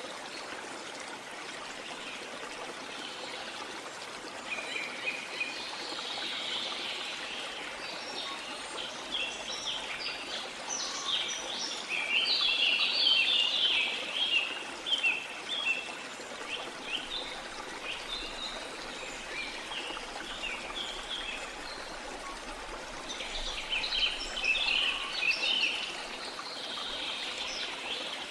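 Steady sound of running water with birds singing over it in bursts of quick, high chirping notes, busiest about halfway through and again near the end.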